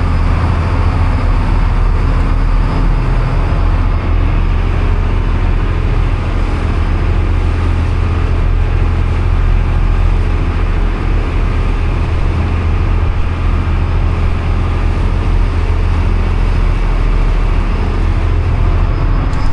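A boat's engines running steadily underway: a constant low drone with an even rush of wind and water over it.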